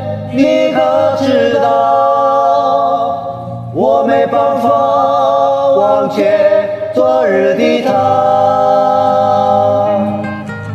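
Solo singer performing a Mandarin ballad to a karaoke backing track, drawing out long held notes with vibrato across a few phrases; the voice fades near the end as the accompaniment carries on.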